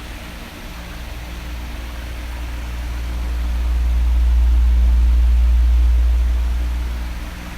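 Oscillating electric fan blowing: a steady whoosh, with a deep rumble that swells from about three seconds in and dies down near the end.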